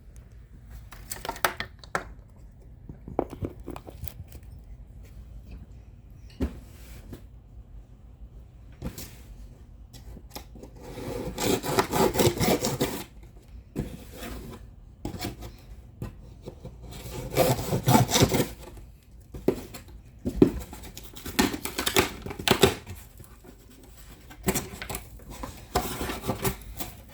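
Cardboard shipping carton being opened and unpacked by hand: irregular rubbing and scraping of cardboard and packaging, in uneven bursts with longer, louder stretches about halfway through and again a few seconds later.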